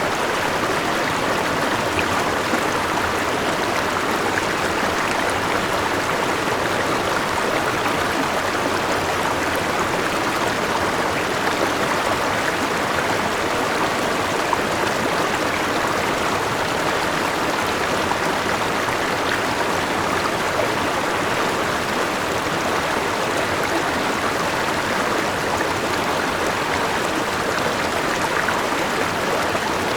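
Forest river running over rocks and a small waterfall: a steady, unbroken rush of flowing water.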